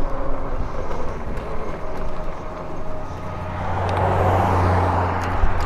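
Wind and road noise from a moving e-bike, with a motor vehicle passing: its hum and tyre hiss swell from about three and a half seconds in and fade near the end.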